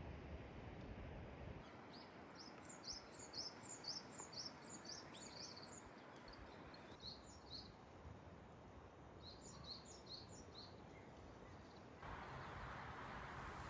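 A small songbird singing faintly: runs of quick, high chirps, one run a couple of seconds in and more between about seven and eleven seconds, over faint steady background hiss.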